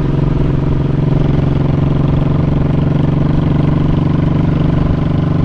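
Honda Shadow 1100's V-twin engine running steadily, its note holding one pitch.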